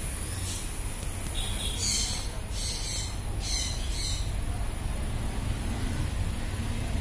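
A small bird chirping: five or six short, high chirps between about one and a half and four seconds in, over a steady low hum.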